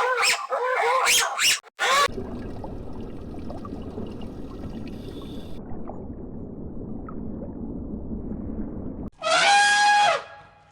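Animal calls: a short run of warbling pitched calls, then a long stretch of low rumbling noise, and one loud, pitched call about nine seconds in.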